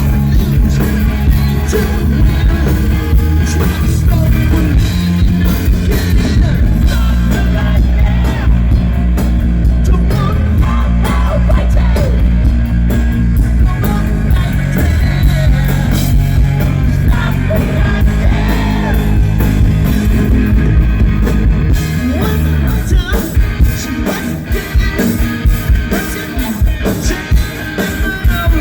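Hard rock band playing live and loud: distorted electric guitars, drums and a lead singer. After about twenty-two seconds the heavy bass falls away and the music thins to sparser, punchier hits.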